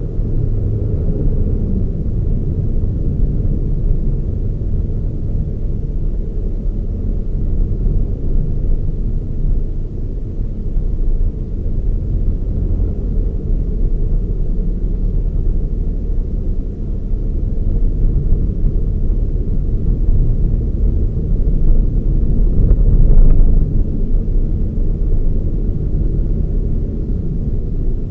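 Toyota Raize small SUV being driven: a steady, low engine and road rumble, swelling briefly a little before the end.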